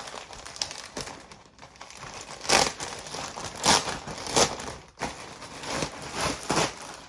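Rustling and crinkling of a new hoodie being handled and pulled on, in irregular swishes with a few louder ones through the middle.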